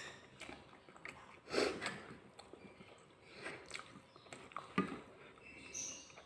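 Close-miked eating sounds of a person eating spicy instant noodles in soup: soft chewing and mouth noises, with a louder noisy burst about one and a half seconds in and a sharp click near five seconds.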